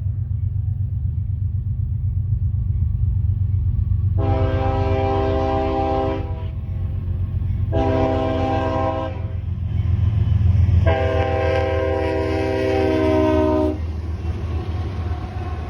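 Lead locomotive's air horn, a GE ES40DC, sounding for a grade crossing: three chords, long, shorter, then the longest, over the steady rumble of the approaching train.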